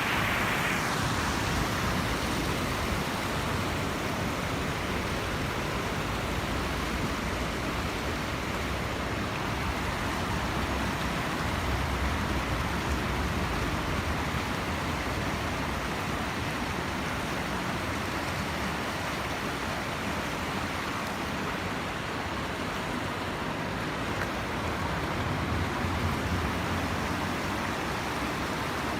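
Steady rushing of flowing water, a continuous even noise, with a low rumble swelling briefly around the middle and again near the end.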